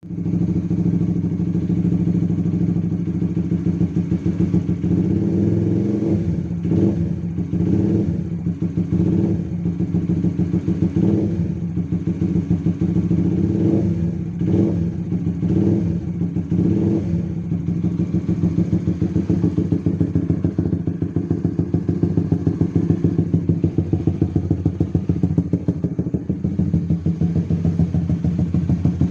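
Motorcycle engine breathing through an R9 aftermarket exhaust, running with a steady, fast pulsing note. Between about 6 and 17 seconds in it gives a series of short throttle blips, then settles back to a steady idle.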